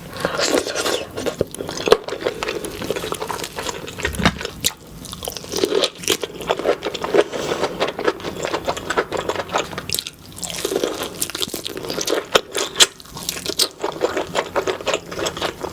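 Close-miked eating of seafood boil: wet chewing and biting with many short, sharp crunches and clicks.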